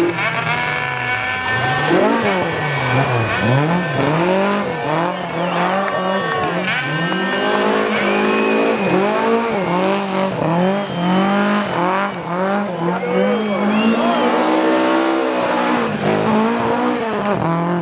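Rally car engine revved hard up and down over and over, about once a second, with tyres squealing, as when spinning donuts.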